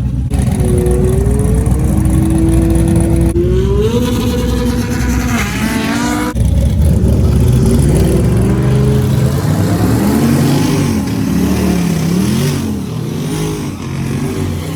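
Twin-turbo LS V8 in a Fox-body Mustang revving hard. Its pitch holds steady, climbs, then swoops up and down several times.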